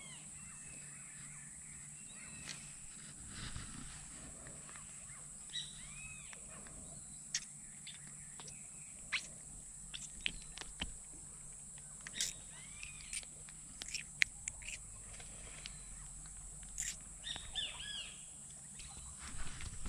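Riverside ambience: birds giving short chirps now and then, over a steady high-pitched hiss, with scattered faint clicks.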